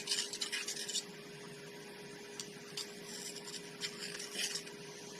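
Hand tool scraping and rubbing inside an ATV front hub's bearing seat as it is cleaned out: a quick run of scratching strokes in the first second, then fainter scattered scrapes. A faint steady hum runs underneath.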